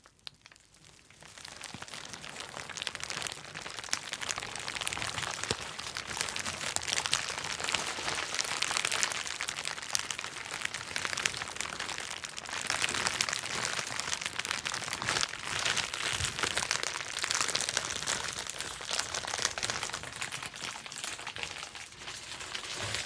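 Plastic bubble wrap being worked and popped: a dense, unbroken run of small pops and crackles mixed with plastic crinkling. It builds up over the first second or two.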